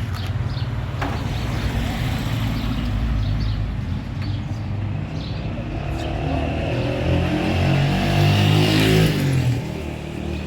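A motor vehicle's engine running steadily, growing louder and rising in pitch from about six seconds in, then dropping back sharply near the end.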